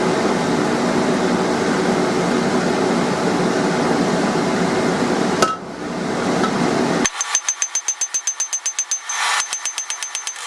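Steady rushing of the forge running for the first five seconds or so, then, from about seven seconds in, a rapid run of evenly spaced hammer blows on hot steel on the anvil, with a high ring from the anvil. The blows are setdowns being forged for the nibs of a pair of blacksmith's tongs.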